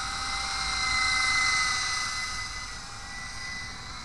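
Silverlit V-150 toy RC helicopter's small electric motor whining steadily in flight. It swells a little about a second in and eases back after about two seconds.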